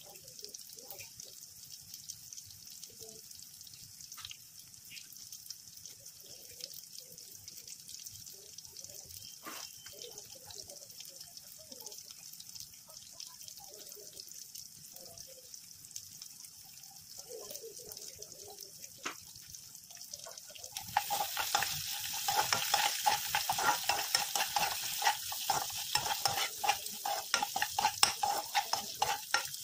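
Onions, green chillies and garlic sizzling in hot oil in a nonstick kadai. About two-thirds of the way through, a metal spoon starts stirring and scraping through them, and the sizzle grows louder.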